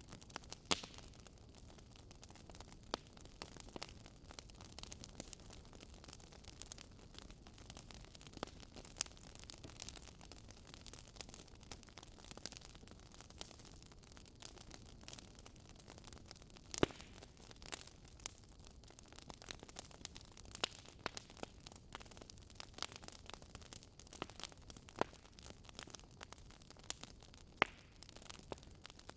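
Wood fire burning in a fireplace, crackling with irregular sharp pops over a soft steady hiss; a few louder pops stand out, one about seventeen seconds in.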